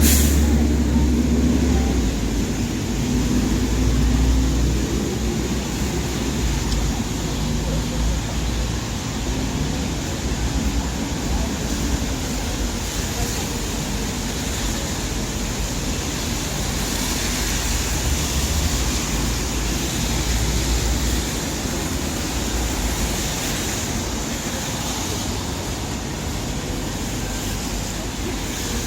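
Busy city street ambience in the rain: traffic running past with a steady hiss of tyres on the wet road, and people talking in the background. A deeper rumble of passing vehicles swells in the first few seconds and again in the middle.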